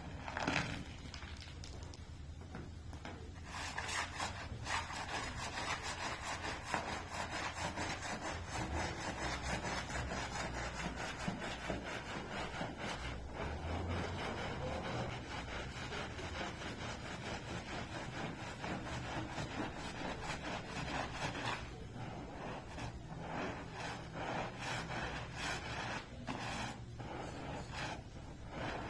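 Rapid, repeated rubbing strokes of a cleaning tool worked over a carpet's pile. They run densely through the middle and break into separate strokes near the end.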